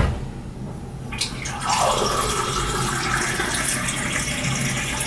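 Water running steadily into a glass, starting about a second in, as a drink is filled.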